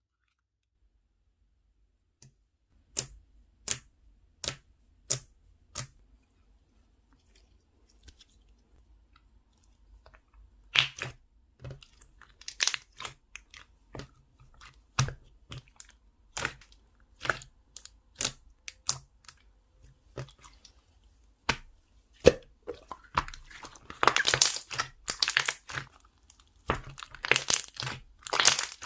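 Slime being pressed and poked by hand. First comes a string of sharp sticky pops, about one every second or less. These give way to irregular crackles, then to dense crackling in two bursts near the end.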